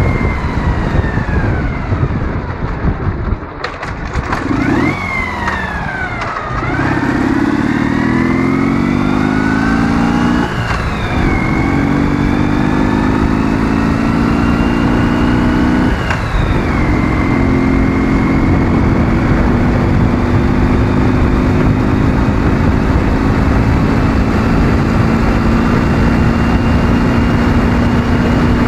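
Ural motorcycle's 650 cc flat-twin engine pulling hard under acceleration. Its pitch climbs and drops back at three gear changes, then holds nearly steady while cruising at speed.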